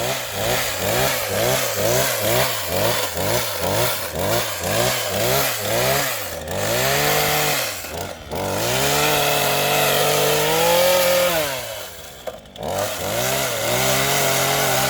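Two-stroke chainsaw engine revved in quick repeated blips, about two a second, then held at high revs for a few seconds. It drops off briefly near the end and then runs steadily again.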